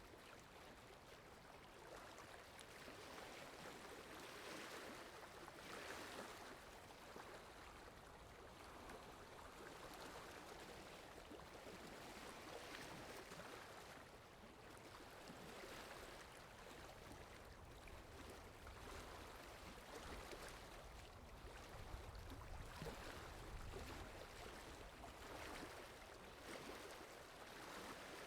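Faint, steady rain in a forest: an even hiss that swells and eases every few seconds.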